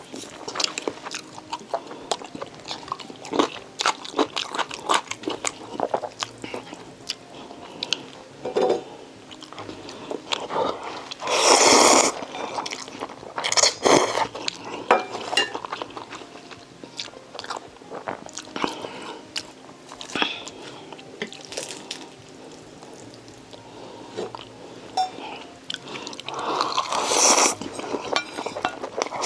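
Close-miked eating sounds: a person biting and chewing, with many small wet clicks and smacks. Two longer rushing noises come about twelve seconds in and again near the end.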